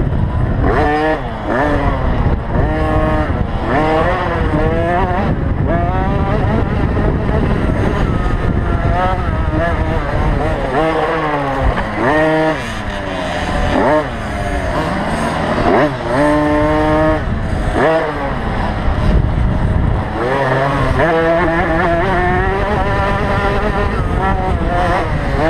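Motocross bike engines revving hard, their pitch climbing and dropping again every second or two as the bikes accelerate and back off around the track, with more than one bike often heard at once.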